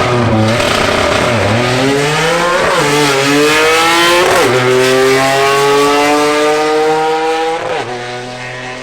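Car engine accelerating hard through the gears: its pitch climbs steadily and drops sharply at each upshift, several times.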